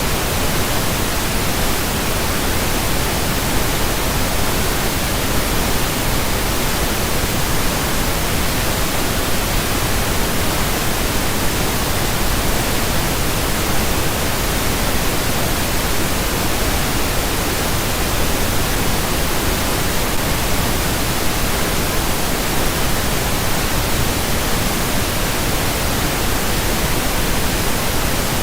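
Steady pink noise: an even, unchanging hiss spread across all pitches, weighted toward the low end, with no rhythm or events.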